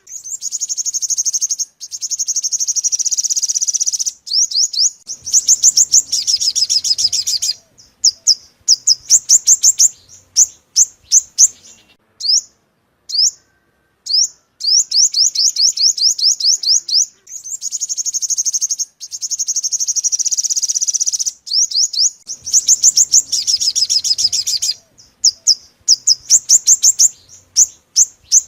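Yellow-bellied sunbird song played as a decoy call: fast, high-pitched trills and runs of sharp chirps with short gaps. The same sequence repeats about every 14 seconds, as a looped lure recording does.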